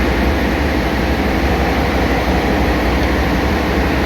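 Loud, steady drone of ship's engine-room machinery, an unbroken low rumble with hiss over it.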